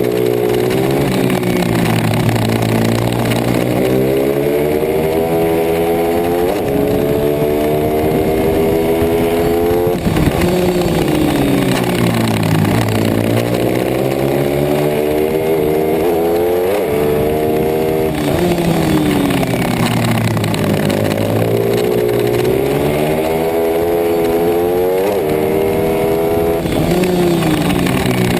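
Pit bike racing engine revving hard, its pitch climbing repeatedly and then dropping sharply as the throttle is closed for corners, about three times over. One engine stays close and loud throughout.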